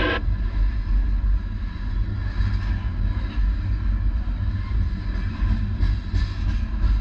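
A train rumbling low and steady, with a short burst of noise right at the start.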